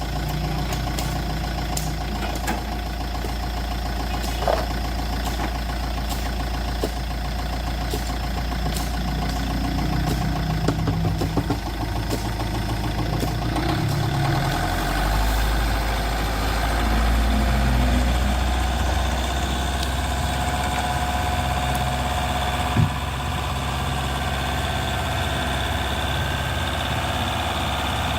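An engine running steadily at idle, its low note shifting about halfway through, with a few light clicks over it.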